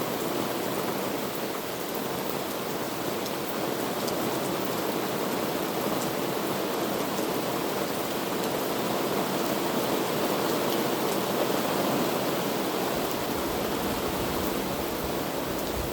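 Heavy rain falling steadily, a dense even hiss with a few faint drop ticks.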